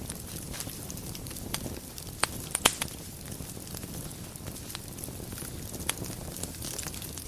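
Wood fire burning in a fireplace: a steady low rumble with scattered crackles, and a couple of sharper pops between two and three seconds in and another near six seconds.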